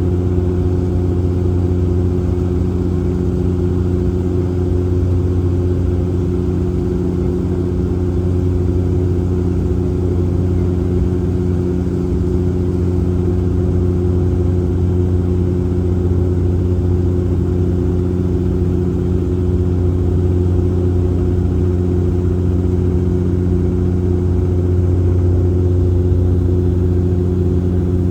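Cabin drone of a Bombardier Dash 8 Q400 in flight: its turboprop engines and propellers make a steady hum of several low tones over a rushing background, swelling slightly near the end.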